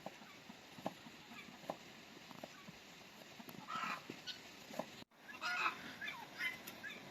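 Farmyard poultry calling in scattered short calls, with a brief cut in the sound about five seconds in.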